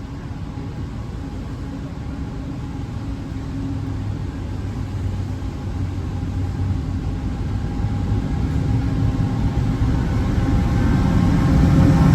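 Train approaching the platform without stopping, a low rumble with a steady hum that grows louder throughout, with faint high-pitched tones coming in near the end.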